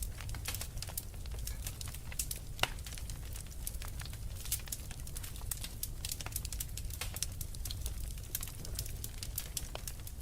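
Wood fire crackling, with frequent small pops over a low steady rumble and one louder pop about a quarter of the way in.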